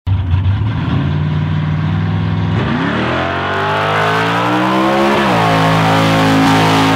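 Drag-racing 1976 Plymouth Road Runner's engine under hard acceleration. It runs at a steady, choppy pitch for about two and a half seconds, then rises steadily as the car pulls away. About five seconds in, the pitch drops sharply at a gear shift and then begins to climb again.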